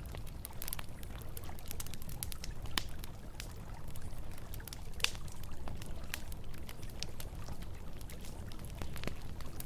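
Campfire crackling, with irregular sharp pops and snaps scattered throughout, over the steady low rush of flowing river water.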